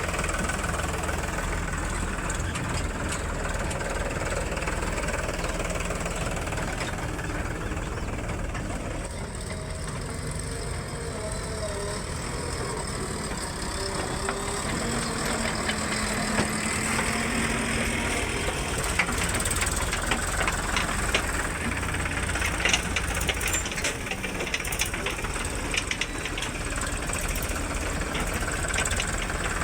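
Heavy vehicle engine running steadily, with a run of short clicks and rattles over the second half.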